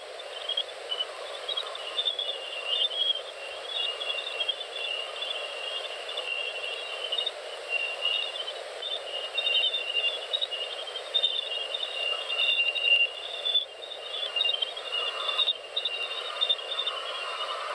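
NASA's 'Jupiter Sounds 2001' space recording of Jupiter's emissions turned into audio: a steady hiss with busy, twittering high-pitched chirps running through it.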